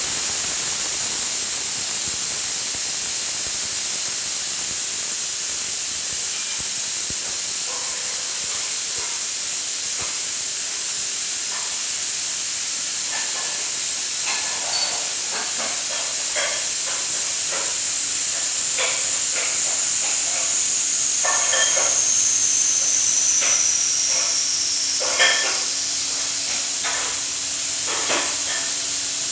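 A loud, steady high-pitched hiss, with brief scattered tones over it from about eight seconds in and a thin whistle sliding down in pitch a little after the twenty-second mark.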